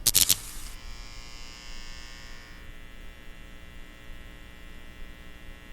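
A few loud, sharp crackles in the first second, then a steady electrical buzz with a hum beneath it.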